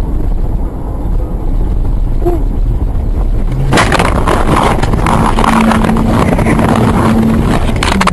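Vehicle recorded from a dashcam: low road and engine rumble, turning into loud rushing noise with a steady low hum from about four seconds in.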